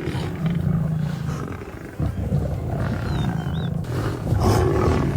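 Lions growling and roaring in a fight with buffalo, growing louder about two seconds in. A bird chirps a few short whistles over it.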